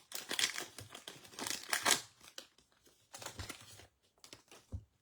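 A foil trading-card pack wrapper being torn open and crinkled, with the loudest crackling in the first two seconds and lighter rustling and handling after.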